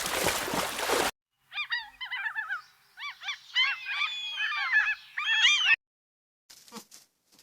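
A flock of birds honking in many short, overlapping, repeated calls for about four seconds, after about a second of a loud rough noise that cuts off abruptly.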